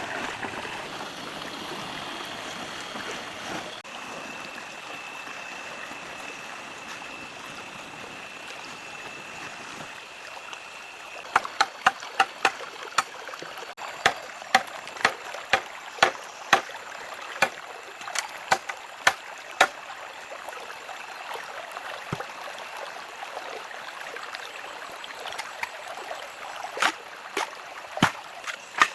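Sharp, loud blows of a hand tool on wood, a quick run of about two a second that slows and stops, with a few more near the end, over a steady flowing-water hiss like a stream. A thin steady high whine sounds in the first third.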